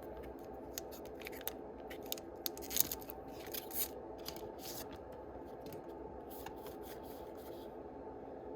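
Yu-Gi-Oh booster pack being opened by hand: a run of short, crisp snips and crinkles of the foil wrapper, loudest about three seconds in, over a steady low hum.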